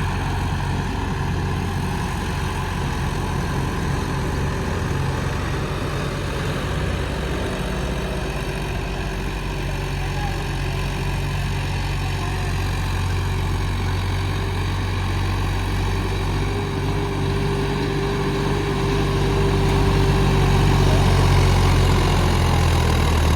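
John Deere tractor's diesel engine running steadily with a deep, even drone. It grows louder and heavier about three quarters of the way through.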